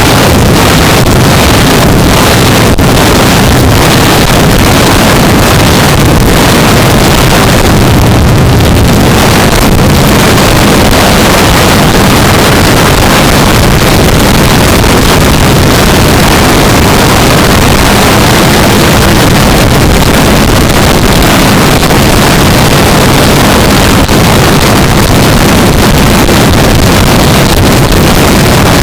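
Loud, steady wind rush over a helmet-mounted camera's microphone while riding a motorcycle, with the 2015 Yamaha R3's parallel-twin engine running underneath at an even pace.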